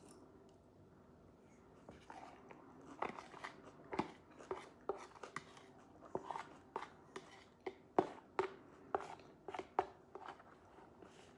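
A person chewing crunchy food: a run of sharp, irregular crunches, about two a second, starting about two seconds in.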